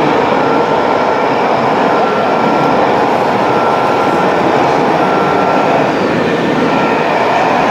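Steady running noise of radio-controlled model construction machines, with a warning beeper sounding about every second and a half.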